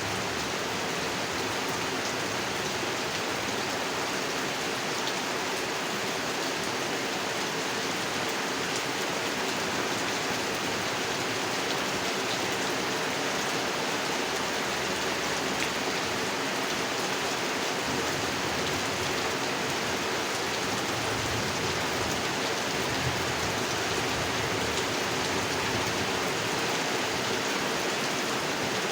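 Steady rain falling onto a pond, an even, continuous hiss of drops with no let-up.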